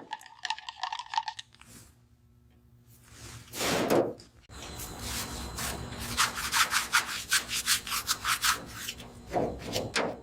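Hand sanding: rapid back-and-forth abrasive strokes on a surface, several a second, in bursts. There is a short pause about two seconds in and one longer swipe about four seconds in.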